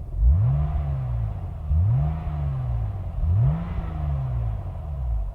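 Porsche 996 Carrera's 3.4-litre flat-six heard at the exhaust, revved three times about a second and a half apart: each rev climbs quickly and falls back slowly over an idle rumble.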